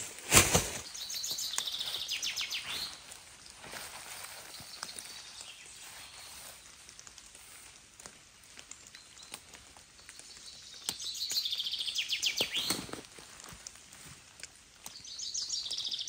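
A small songbird sings a fast, trilled phrase three times, each about two seconds long and dropping in pitch toward its end. A loud thump comes just after the start, and faint scattered ticks fall between the phrases.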